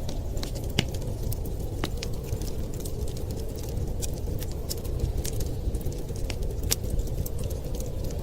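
Wood fire crackling, with irregular sharp pops and snaps over a steady low rushing noise of wind.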